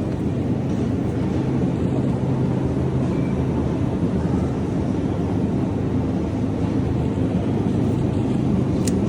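Steady low rumble with a constant hum, with a faint tick near the end.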